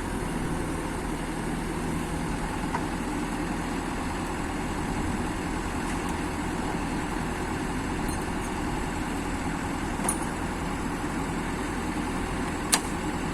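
A heavy engine idling steadily, with a couple of faint clicks near the end.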